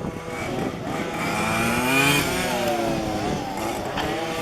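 Small two-stroke petrol engines of 1:5-scale RC cars revving as the cars run on the track. Several engines overlap, their pitch rising and falling, loudest about two seconds in.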